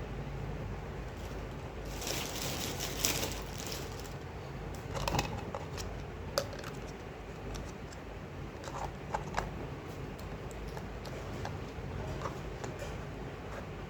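Small toy pieces and packaging being handled: a stretch of rustling about two seconds in, then scattered light clicks and taps over a steady low hum.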